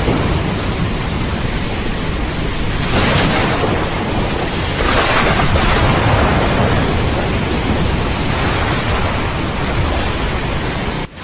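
Steady heavy rain with rolling thunder rumbling underneath, swelling louder twice in the first half. Near the end the sound drops out for an instant, like a splice in the recording.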